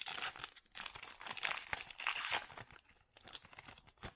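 Wrapper of a basketball trading card pack being torn open and crinkled by hand, a dense run of crackling rustles that is heaviest in the middle and thins out near the end.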